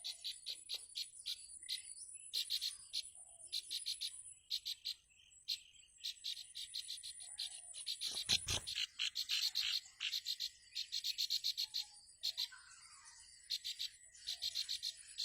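A ciblek (prinia) giving bursts of fast, sharp repeated chattering calls, a parent bird's alarm over its nest, against a steady high insect drone; a short low thud comes a little past halfway.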